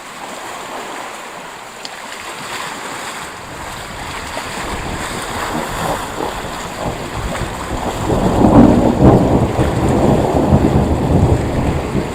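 Thunderstorm noise: a low rumble that builds steadily and grows loud about eight seconds in, mixed with wind buffeting the microphone.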